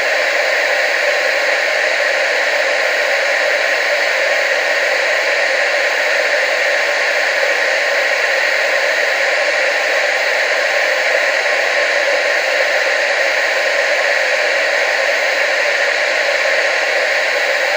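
Analogue TV static: a steady, even hiss that never changes, strongest in the middle and upper range with little low rumble.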